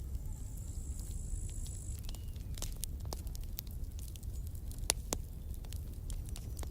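Campfire burning: wood crackling with scattered sharp pops, the loudest about five seconds in, over a low steady rumble.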